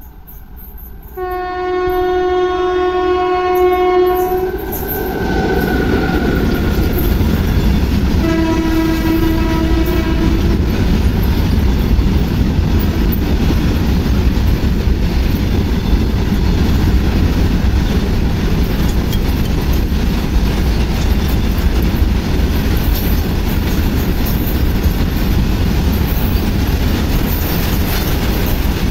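A freight train passing at speed: the locomotive's horn sounds a blast of about three seconds, then a second, lower-pitched blast about four seconds later. The rest is the steady noise of the long rake of covered wagons rolling by, steel wheels on the rails.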